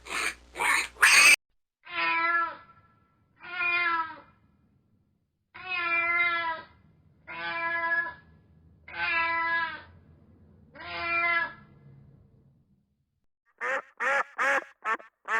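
Domestic cat meowing six times, each meow about a second long with pauses between. A loud run of short animal calls ends about a second in. Rapid short calls start near the end.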